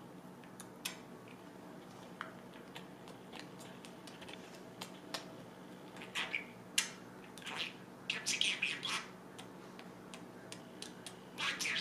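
Budgerigar chirping and chattering in short high bursts, with scattered small clicks first and the chirps gathering from about halfway through.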